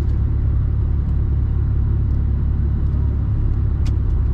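Mercedes-Benz Actros truck's diesel engine running with a steady low rumble, heard from inside the cab, with a single sharp click near the end.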